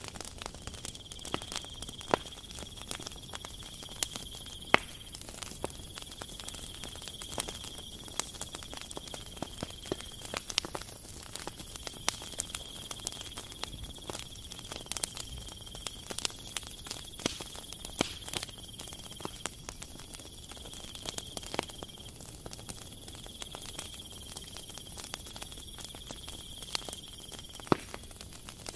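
Cookie dough baking inside a cast-aluminium walnut-cookie mould over a gas burner: a steady sizzling hiss with irregular crackles and pops.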